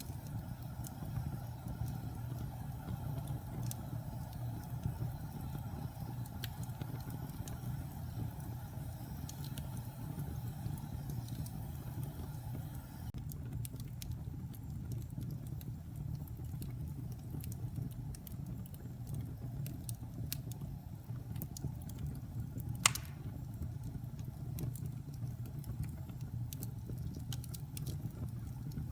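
Wood fire burning in a fireplace: a steady low rumble with scattered faint crackles and one sharp loud pop about two-thirds of the way through.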